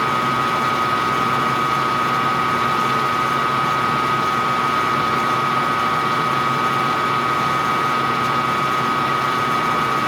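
Small metal lathe running steadily with a high whine and a lower hum while a small drill bit is slowly fed into a metal workpiece, lubricated with WD-40.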